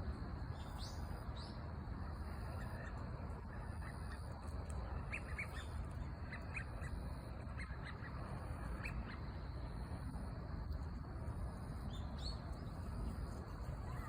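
Birds calling: a series of short high chirps through the middle, with a few quick rising calls near the start and near the end, over a steady low background rumble.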